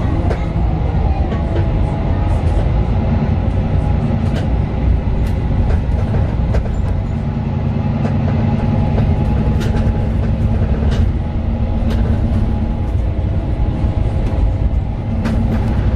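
Inside a 2018 Mercedes-Benz Citaro 2 city bus under way: steady low rumble of the OM 936 diesel engine and the road, with an engine hum that swells and fades several times as it pulls and eases off. Scattered rattles and clicks from the bus interior.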